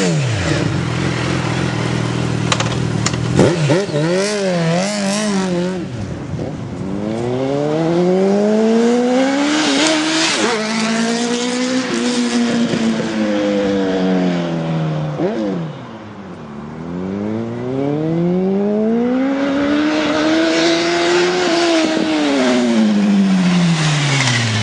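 Motorcycle engine being revved: quick blips in the first few seconds, then the revs climb slowly for several seconds and fall back, twice over.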